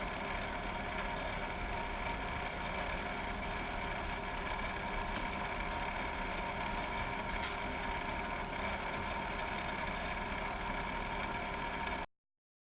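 Steady machine hum with several constant tones over a low noise, like bench equipment or a fan running, and a faint tick about halfway through. The audio cuts out completely near the end.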